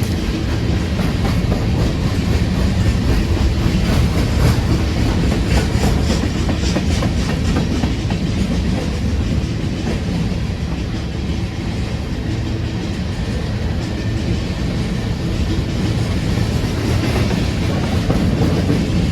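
Freight train rolling past, a steady heavy rumble with the wheels clicking over the rail joints.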